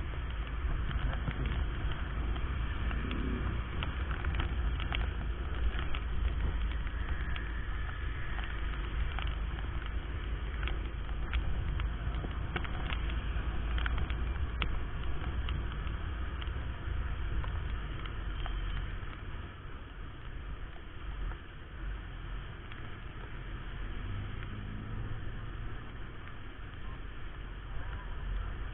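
Honda Verza 150 motorcycle riding, heard from a helmet camera: a steady rumble of wind, engine and road, with scattered sharp taps throughout. The rumble eases a little past the middle.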